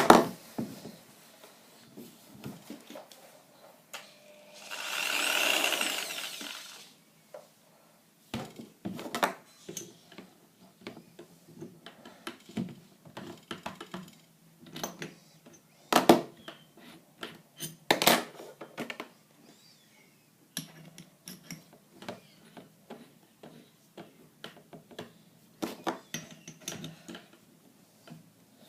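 Electric drill running once for about two seconds, its motor whining up and winding down. Scattered clicks and knocks come from handling the drill while its bit is changed, with two sharper knocks a little past halfway.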